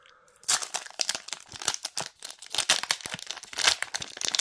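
Wrapper of a trading-card booster pack being ripped open and crinkled by hand, starting about half a second in as a dense, irregular crackling.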